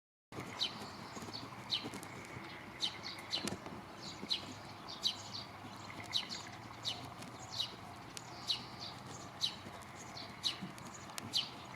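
A bird calling over and over: short, sharp notes that drop quickly in pitch, about one a second, over a faint steady hiss.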